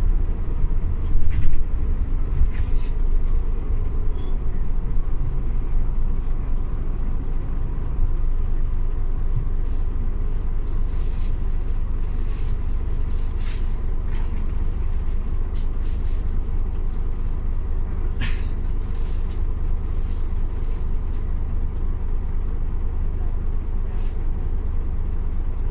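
Scania OmniLink CL94UB city bus heard from inside the cabin, its engine running with a steady low rumble as it drives. A few brief clicks and hisses come through at intervals.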